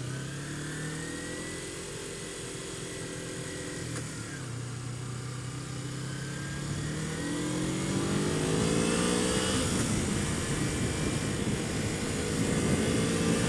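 Kawasaki Ninja 250's parallel-twin engine pulling under load with wind noise, its pitch climbing, then dropping sharply at upshifts about four and ten seconds in before climbing again.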